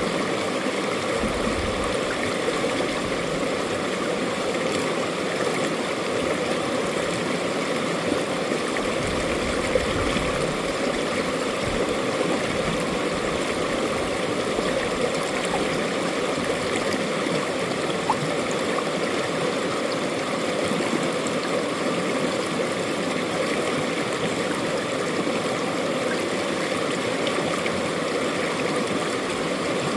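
Mountain stream flowing over rocks, a steady rush of water with gurgles and small splashes.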